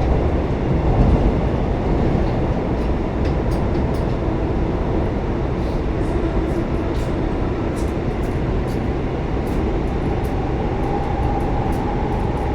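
Passenger train running, a steady rumble and rushing noise, with a faint whine coming in about ten seconds in.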